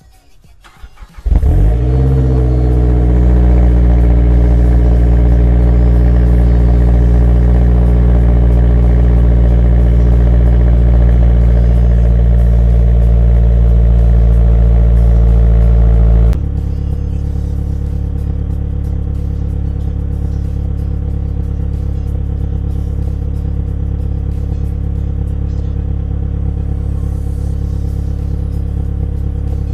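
Exhaust of a 2013 Mazdaspeed3's turbocharged 2.3-litre four-cylinder with the resonator deleted: the engine starts about a second in, flares briefly and settles into a steady idle. About halfway through, the sound drops suddenly to a quieter steady idle.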